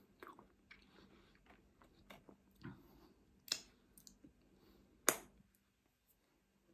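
A person chewing food close to the microphone, with soft wet mouth noises and scattered small clicks, two of them sharper, about three and a half and five seconds in.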